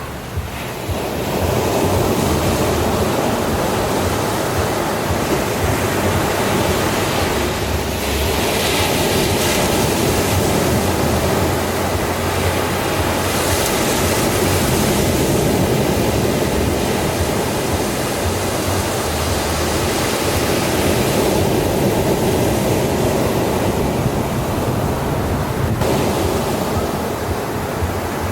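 Ocean surf: waves washing in as a continuous rush that swells and eases every few seconds.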